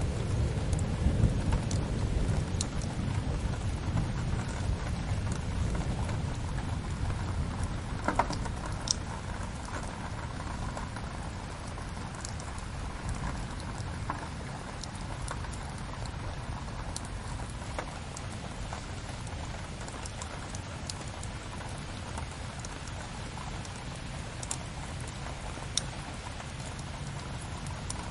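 Steady rain with the occasional sharp crackle and pop of a wood fire. A low rumble of thunder fades away over the first several seconds.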